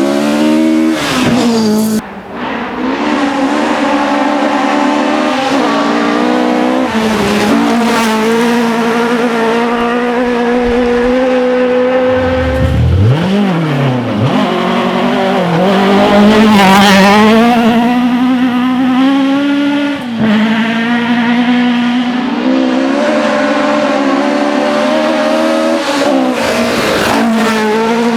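Rally car engine run hard at high revs, its note held almost steady with short breaks for gearchanges about two seconds in, around twenty seconds and near the end. Around thirteen seconds in the revs drop sharply and climb back.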